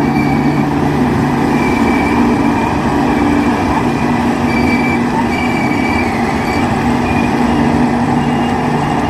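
Diesel locomotive engine running steadily with a deep hum, while a thin high tone comes and goes above it.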